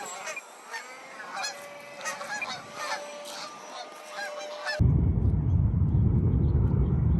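Egyptian geese calling repeatedly, many short honks in quick succession. About five seconds in, the calls give way abruptly to a loud low rumbling noise.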